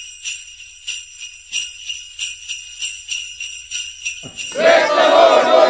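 Sleigh bells jingling in an even shaking rhythm, about three shakes a second. A louder sound with many shifting pitches swells in for the last second or so.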